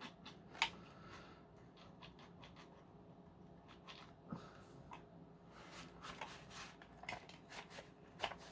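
Faint scattered clicks and light scraping as parts of a Dyson V10 vacuum are handled, the clicks coming more often near the end.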